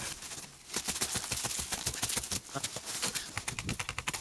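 A piece of wood being split apart along a natural crack: a fast, irregular run of small cracks and snaps as the fibres tear.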